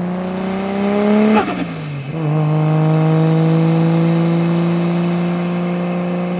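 Car engine sound effect accelerating, its pitch climbing, then dropping briefly with a sharp burst about a second and a half in, as at a gear change, before running on steadily with a slowly rising pitch.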